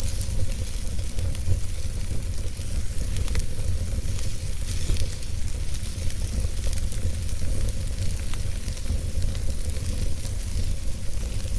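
Fire burning in a fireplace: a steady low rumble and hiss with frequent small crackles and pops.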